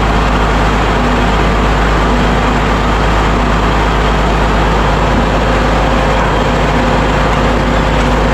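Loud, steady drone of a ship's engine-room machinery running, a low hum with a few steady tones over it.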